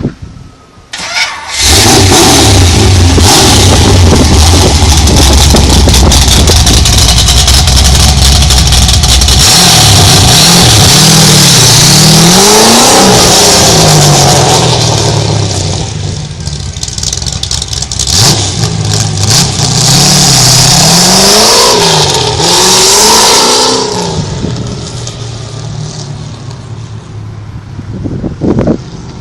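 Small-block Chevy V8 in a Mazda RX-7, breathing through a 2.5-inch X-pipe exhaust, starts up about a second and a half in and runs at a steady fast idle. It is then revved up and back down several times in two bouts, and settles quieter near the end.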